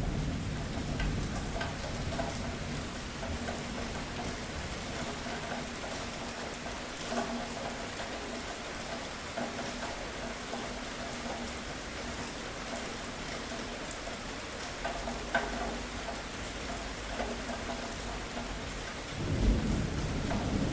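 Steady rain falling, with scattered drops hitting close by. A low roll of thunder fades away at the start, and another rumble builds near the end.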